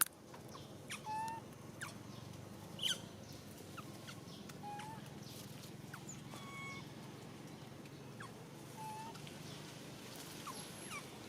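A young macaque giving short, thin, whimpering coo calls, one every two to three seconds, typical of an infant in distress after being separated from its group. A few faint ticks and a steady low outdoor background sit under the calls.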